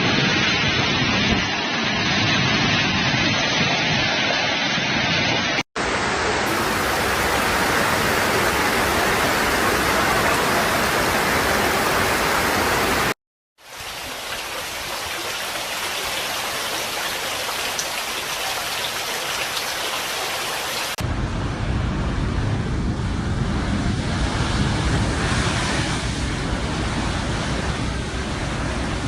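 Loud, steady rushing noise of a storm, like heavy rain and wind, across several clips that cut abruptly from one to the next, with a brief drop out about halfway through.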